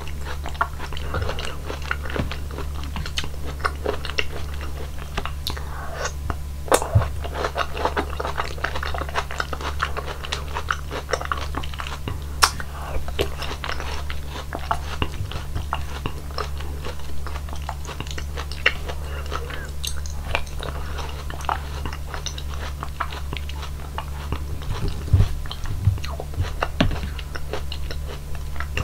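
Close-miked chewing of hwachae fruit punch: mouthfuls of watermelon, dragon fruit and other soft fruit in sweet juice, with many short wet clicks and smacks from the mouth. A steady low hum runs underneath.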